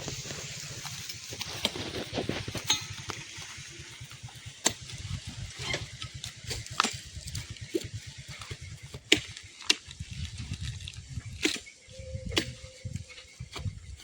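A low, fluttering rumble with sharp knocks and clicks scattered irregularly through it.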